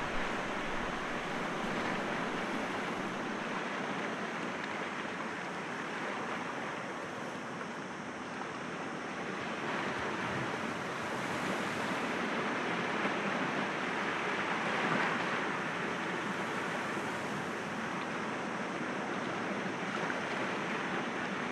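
Sea waves breaking gently against rocks: a steady rush of surf that swells and eases every few seconds.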